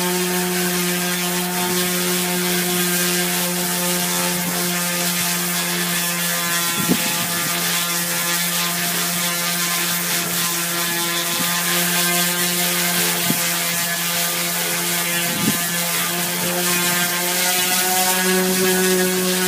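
Electric power sander running steadily against a fiberglass boat hull, stripping it to bare glass for osmosis repair: a constant motor hum with a high grinding hiss, a few light knocks, and the pitch rising slightly near the end.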